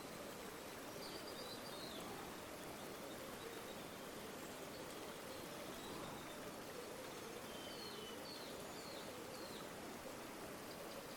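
River water flowing steadily, a soft even rush. A few faint high bird chirps come through about a second in and again in a short run near the end.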